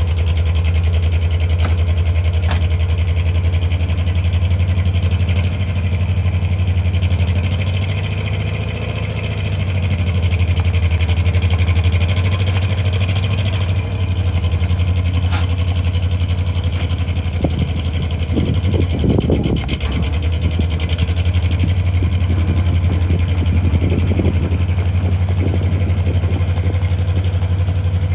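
1981 GMC C-6000 grain truck engine idling steadily, with a short patch of rougher noise about two-thirds of the way through.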